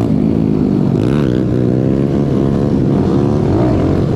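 Small-displacement pit bike engine running, its revs dipping and climbing again about a second in.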